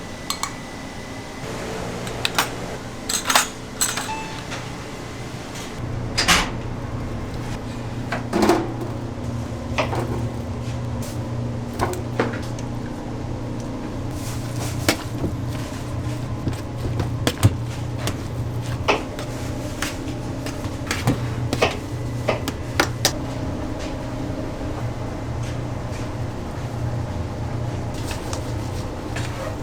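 Kitchen work sounds: scattered knocks, clicks and clanks of things being handled and doors or lids being shut, over a steady low machine hum that sets in about six seconds in.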